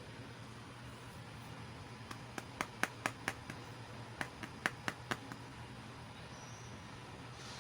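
Small plastic miniature toy pieces being handled, tapping and clicking against each other: about a dozen sharp light clicks in the middle stretch, over a faint steady hiss.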